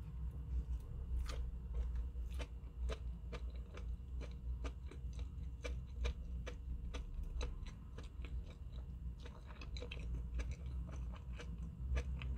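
A person chewing a mouthful of chicken burger, with soft wet clicks and smacks of the mouth at about two a second.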